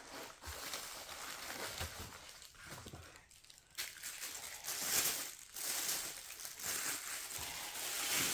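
Irregular rustling and crinkling handling noise while the new transfer case actuator and its packaging are handled, louder in the second half.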